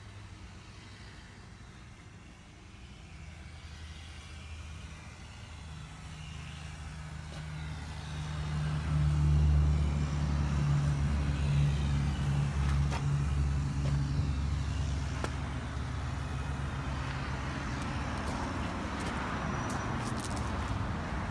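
The Toyota Tundra's 5.7-litre V8 running. It grows steadily louder over the first half, peaks about halfway, then holds a steady low drone while a hiss spreads in near the end.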